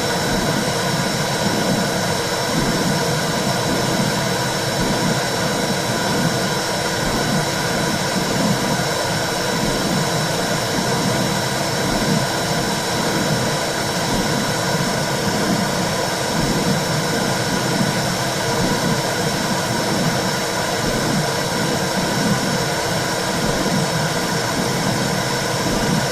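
Womb sound for soothing a baby: a steady low whooshing rush like blood flow heard inside the uterus, with a faint thin whine above it.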